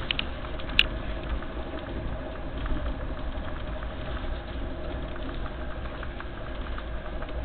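Steady rumble and rolling noise of an express passenger train running at about 135 km/h, heard from inside the coach, with a faint steady hum and one sharp click about a second in.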